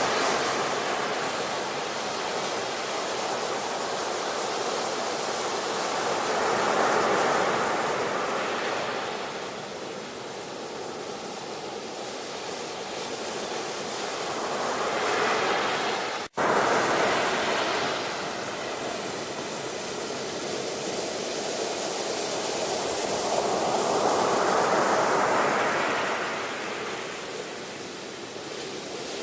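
Ocean surf: waves swelling and washing in and receding, three times at intervals of about eight to nine seconds. About sixteen seconds in, the sound drops out for a split second.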